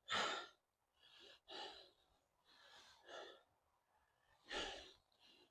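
A man breathing hard, with about four heavy, gasping breaths roughly a second and a half apart. He is winded from hauling a loaded sled on foot through deep mud.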